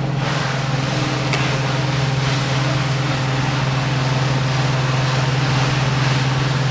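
Engine of heavy machinery running steadily: a continuous low drone with noise above it and no change in pitch.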